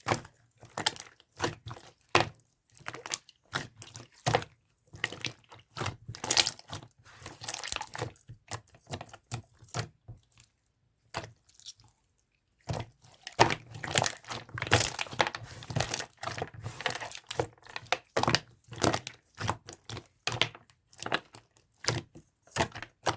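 Hands squishing and pressing a translucent slime, making quick irregular sticky clicks and pops, with a quiet gap of about two seconds near the middle.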